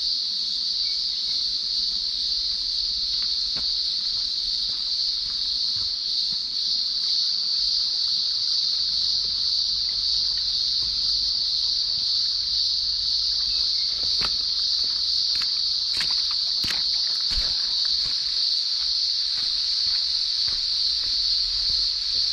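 Cicadas shrilling in a steady, loud, high-pitched chorus that never lets up. A few sharp clicks come about two-thirds of the way through.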